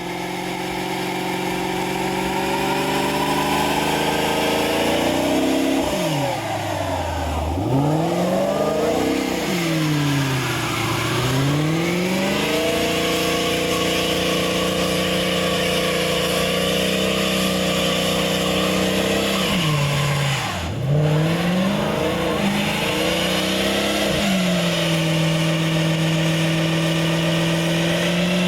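Car engine revving hard, its pitch held high for several seconds at a time and dropping and climbing again several times.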